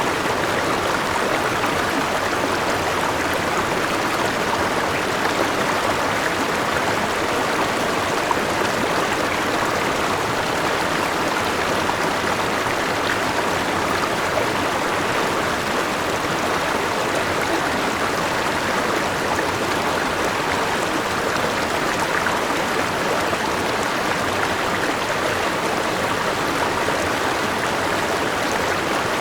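Forest river rushing over rocks: a steady, even wash of flowing water, with no breaks or changes.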